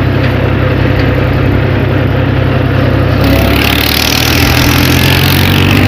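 Tractor engine running steadily at close range. About three seconds in its note shifts and a higher hissing noise joins it.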